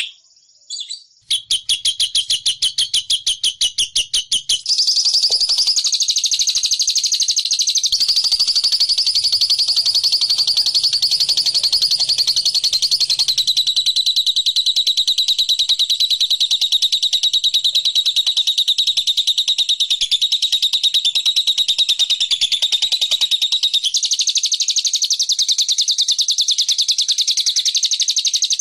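Lovebird ngekek: a long, very fast, high-pitched chattering trill. It starts as a stuttering run, then becomes one unbroken trill about four seconds in and shifts pitch a few times.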